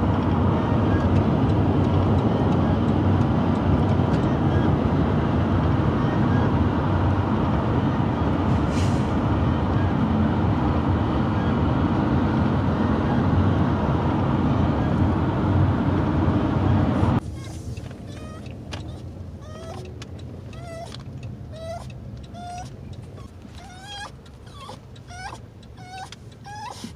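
Steady road and engine noise inside a moving van, which cuts off abruptly about two-thirds of the way through. After that a dog whines over and over in short high calls, about one or two a second.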